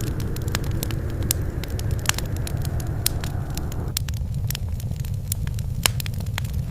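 Wood fire crackling, with frequent sharp pops and snaps over a steady low rumble of burning. About four seconds in, the mid-range hiss of the flames drops away abruptly while the pops and rumble carry on.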